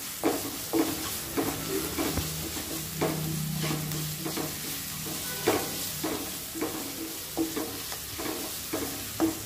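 Chopped onions and garlic paste sizzling in oil in a non-stick kadai on a low flame, while a wooden spatula stirs and scrapes through them in repeated strokes about once a second. This is the stage of frying the raw smell out of the garlic paste.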